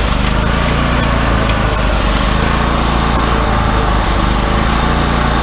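Wood-Mizer LT40 hydraulic sawmill's engine running steadily at an even speed.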